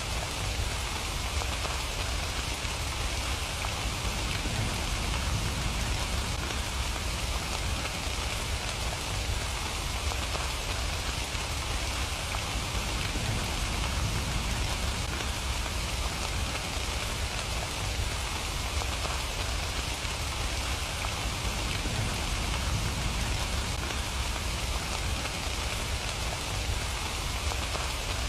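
Steady rain falling, an even hiss of countless drops with a constant low rumble underneath.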